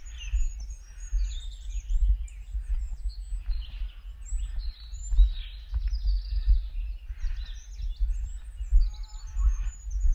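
Small songbirds calling and chirping all through, many short high notes overlapping, over an uneven low rumble on the microphone.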